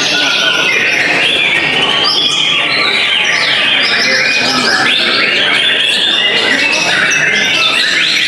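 Several white-rumped shamas (murai batu) singing over one another: a dense, unbroken stream of loud whistled phrases and trills.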